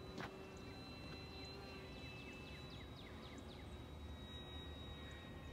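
Faint, steady high whine of an E-flite Draco's electric motor and propeller as the RC plane flies at a distance, holding an even pitch. Short high chirps come and go over it.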